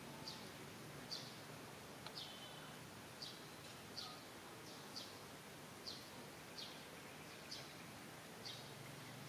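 A bird chirping, short high notes that drop slightly in pitch, repeated about once a second over a faint background hiss.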